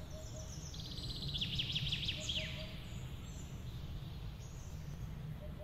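Outdoor ambience: a small bird calls a quick run of short falling chirps about a second in, over a steady low rumble.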